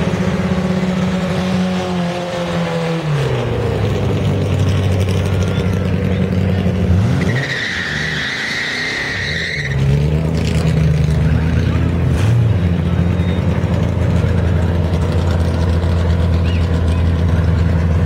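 Drag-racing Chevrolet Nova's engine coming down off the revs after a burnout. A tyre squeal follows about seven to nine and a half seconds in. From about ten seconds in, the engine idles loudly close by.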